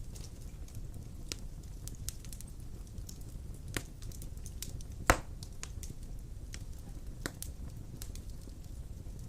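Wood fire burning in a stone fireplace: a steady low rush of flames with scattered crackles and pops, the loudest pop about five seconds in.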